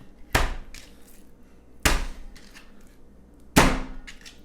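Kitchen knife chopping down onto a cutting board while trimming fat from raw chicken: three sharp knocks about a second and a half apart, each with a short ringing tail.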